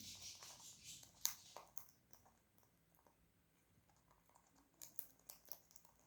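Faint clicks and crunches of an Alexandrine parakeet eating, its beak working at food. A brief rustle comes first, then a sharper click just over a second in, and another run of small clicks about five seconds in.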